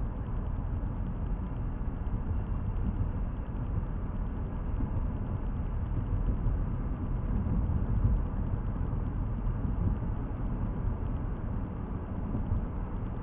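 A car's road and engine noise heard from inside the cabin while driving: a steady low rumble with no sudden events.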